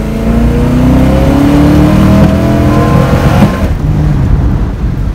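1968 Ford LTD's 390 V8 accelerating hard, heard from inside the cabin. Its note climbs steadily for about three and a half seconds, then drops sharply as the automatic transmission shifts up, and the engine pulls on.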